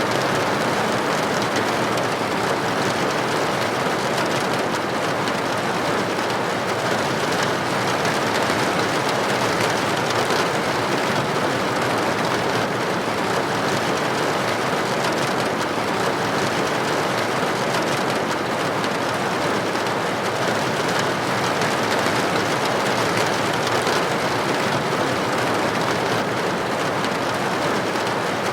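Steady rain, its droplets hitting a building window: an even, unbroken hiss.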